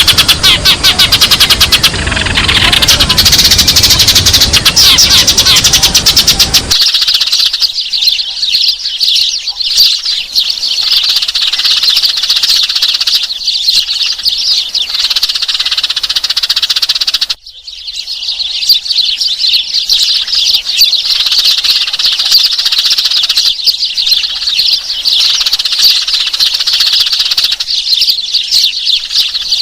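Sparrows chirping in a dense, continuous chatter of rapid high chirps. A low rumble under the chirping cuts off abruptly about seven seconds in, and the sound drops out for a moment a little past the middle.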